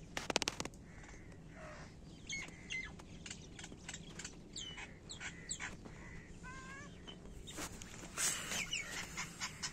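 Birds chirping and calling: many short, mostly falling chirps and whistles, growing busier near the end. A brief, loud, rapid rattle comes about half a second in.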